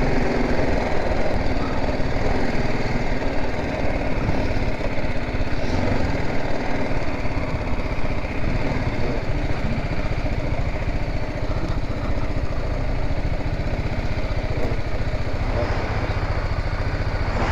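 BMW G 310 GS motorcycle's single-cylinder engine running steadily at low revs, a fast, even pulse with no rise or fall in pitch.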